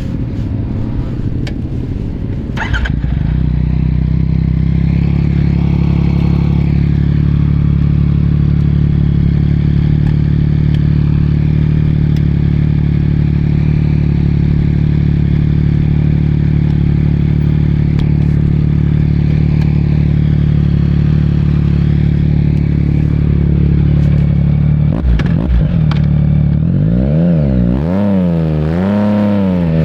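Yamaha MT-09 three-cylinder motorcycle engine running at a steady note for most of the time. Near the end the throttle is worked, and the revs rise and fall several times in quick succession.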